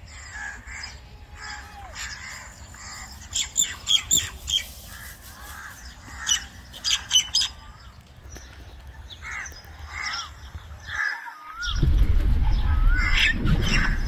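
Birds calling, with harsh squawking calls and chirps and a few loud clusters of calls. About eleven seconds in, the sound cuts out for a moment, and then a loud low rumble starts with birds still chirping over it.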